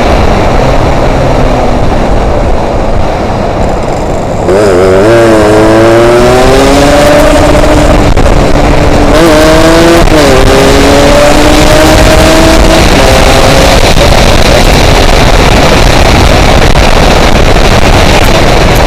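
Yamaha RX-King two-stroke single-cylinder motorcycle engine under way, its pitch rising as it accelerates, dropping sharply about halfway through at a gear change, then rising again. Heavy wind rushing over the microphone runs loud throughout and in stretches covers the engine.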